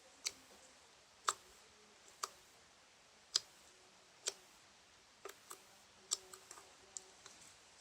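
Butter slime being pressed and played with, giving off sharp, quiet clicks about once a second, then a run of smaller, quicker clicks near the end.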